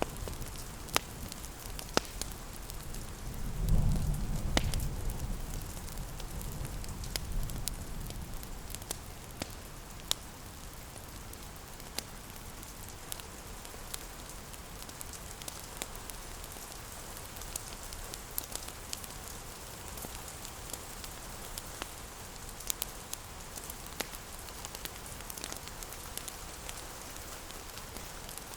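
Steady rain with fireplace crackles, sharp pops scattered irregularly through the hiss. A low rumble of distant thunder swells a few seconds in and fades away.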